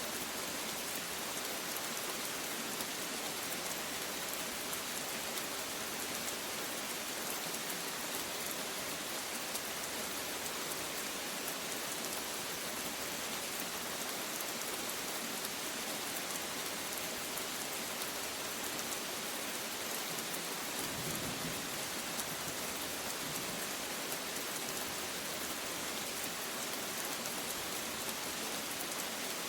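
Steady rain falling and pattering on surfaces, an even, unbroken hiss with no let-up.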